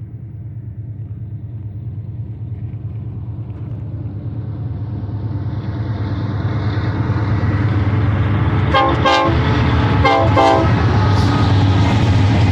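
Approaching diesel freight train led by a GE AC44C6M locomotive, its engine and wheels rumbling steadily louder as it nears. Near the end the locomotive's air horn sounds two short blasts about a second apart.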